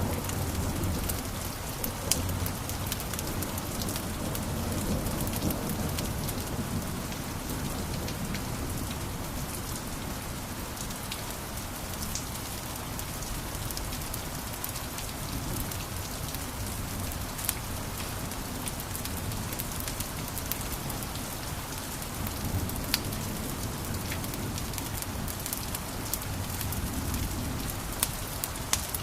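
Wood fire crackling in a fireplace: a steady hiss and low rumble from the burning wood, with scattered sharp pops and snaps throughout.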